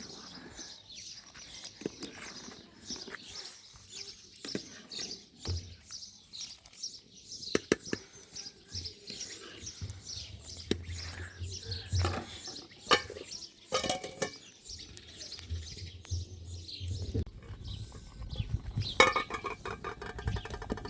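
Small birds chirping repeatedly, with scattered sharp knocks and clicks.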